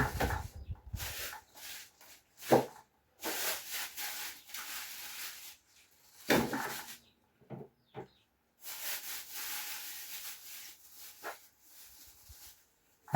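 Handling noise from putting food back into a refrigerator: rustling with several sharp knocks, the loudest about two and a half and six seconds in.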